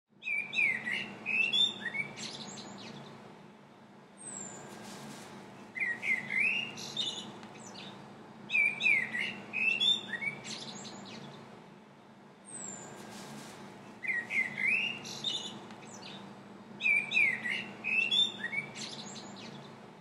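A songbird singing the same short phrase of chirps and whistles over and over, about every three to four seconds, with a single brief high note between some phrases. A steady low hum runs underneath.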